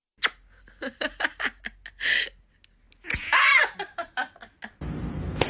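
A person laughing in a run of short snickering bursts, with a longer voiced laugh a little past halfway. A louder, noisier sound comes in near the end.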